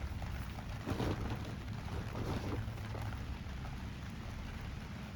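Rain falling steadily, with a low rumble underneath and a few brief rustles about one and two seconds in.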